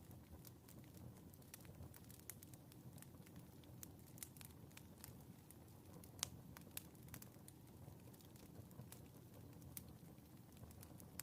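Wood fire crackling quietly in a fireplace: irregular small pops and snaps over a low steady rumble, with one sharper crack about six seconds in.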